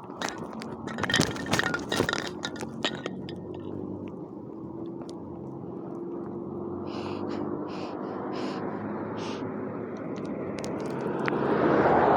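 Steady low background rumble with a run of clicks and knocks in the first three seconds, a few short hisses about halfway through, and a broad rushing sound that swells to its loudest near the end, like a vehicle passing close.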